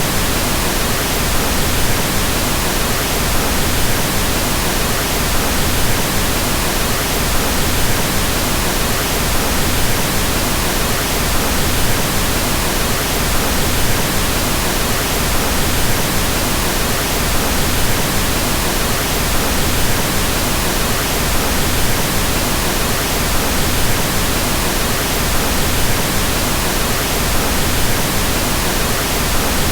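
Pink noise: a steady, even hiss spread across all pitches, with more weight in the low end than white noise, unchanging throughout.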